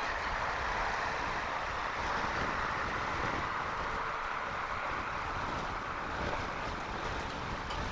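Strong storm wind on an outdoor webcam's microphone: a steady, even noise, with a faint steady hum under it in the first half.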